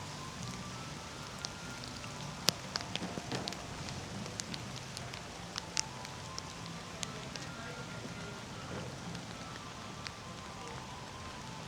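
Steady rain falling, with scattered sharp drops hitting close by, the loudest about two and a half seconds in. Faint music with a slow melody plays underneath.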